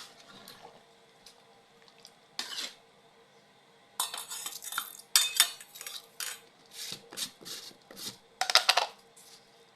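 A utensil scraping and clinking against a cooking pot in quick, uneven strokes as bamboo-shoot curry is stirred. A few strokes come in the first seconds, and the busiest stirring comes from about four seconds in until near the end.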